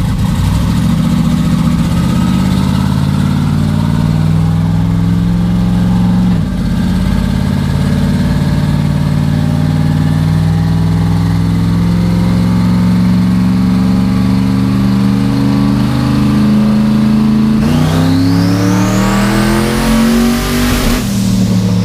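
Twin-turbo 427 LSX V8 race engine under load on a chassis dyno, revs creeping up with a brief dip about six seconds in. In the last few seconds the revs climb fast with a rising turbo whistle, then cut off sharply just before the end as the whistle falls away.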